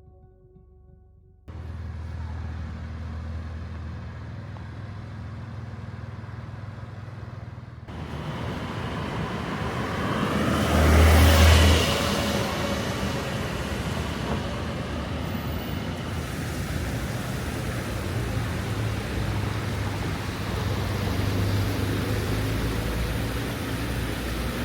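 Porsche 911 Carrera T's twin-turbo flat-six in city driving. A steady low engine hum gives way to road and traffic noise, with the car swelling loudest as it passes close about eleven seconds in, then steady running.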